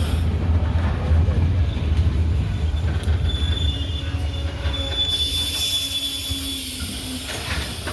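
A Sri Lanka Railways diesel train runs past with a heavy low rumble that slowly fades as it moves away. A thin, high wheel squeal rings out for a couple of seconds in the middle.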